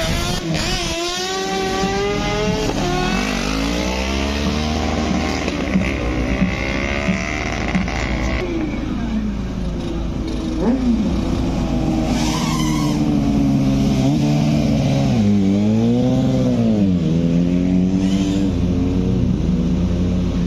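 Formula-4 race car engines running hard on a street circuit. Their pitch rises and falls again and again as they accelerate, back off and drive past, with a dip and climb about three-quarters of the way through.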